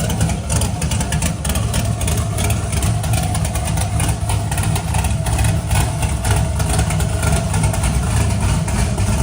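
Twin-turbocharged NASCAR truck V8 idling steadily soon after being started. Its exhaust exits at the rear, far from the engine, which makes it sound quiet.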